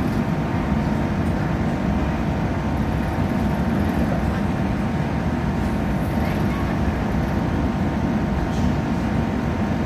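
Steady running noise of a passenger train under way, heard from inside the carriage: a constant low rumble of wheels on track with a hiss over it.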